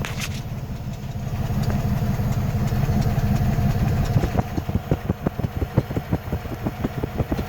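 Buick Roadmaster's LT1 5.7-litre V8 idling, heard at the passenger-side exhaust: the engine has a random misfire on its even-numbered bank. A steady low rumble turns, about four seconds in, into a rapid, even beat of exhaust pulses.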